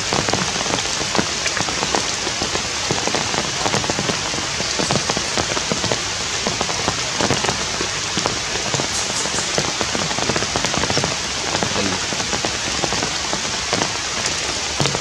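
Steady heavy rain, with many separate drops striking close by.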